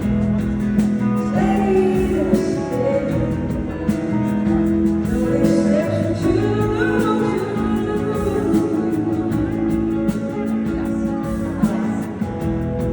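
Live band playing a slow song: guitar holding sustained notes under a singing voice that glides between pitches.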